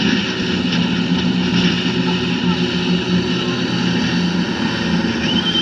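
Tour speedboat's engines running steadily under way, with a constant hum over a rush of water and wind noise. A brief high-pitched tone rises and falls near the end.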